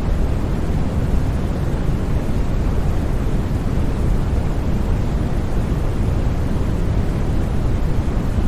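Steady synthetic white noise for sleep: an even, unchanging rush with no tones or breaks, weighted toward the low end so it sounds more like a deep rumble than a bright hiss.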